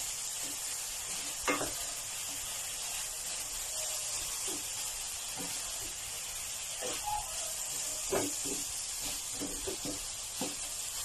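Chicken breast pieces sizzling in a nonstick pan as a spatula stirs them, with scattered knocks and scrapes of the spatula against the pan. The pan is nearly dry, the cooking water almost boiled off.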